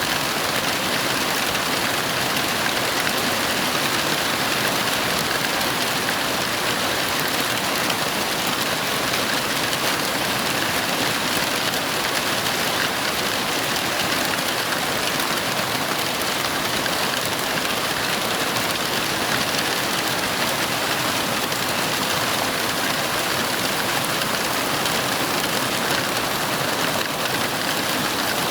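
Heavy rain falling steadily, a continuous even hiss with no thunder rising out of it.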